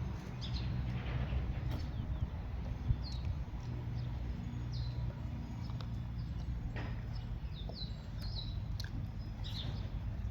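Birds chirping: a dozen or so short, high chirps that slide down in pitch, scattered through, over a low steady rumble.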